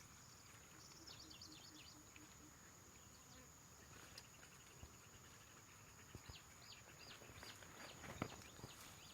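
Faint outdoor ambience: an insect's steady high-pitched drone, with a bird calling in a run of short repeated notes, about three a second, in the second half. A few faint clicks come near the end.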